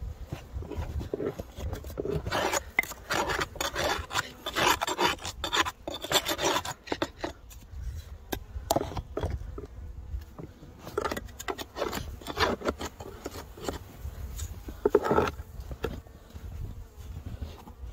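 Irregular scraping and rubbing strokes as snow is cleared from a beehive entrance. The strokes come thick in the first few seconds, then again in short runs later on.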